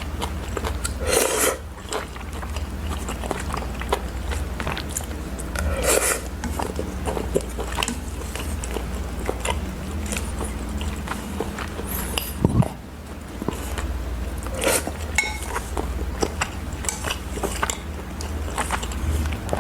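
Close-miked eating: chewing and biting with intermittent clicks and clinks of utensils against the bowl and plate, including a sharper knock about two-thirds of the way through, over a steady low hum.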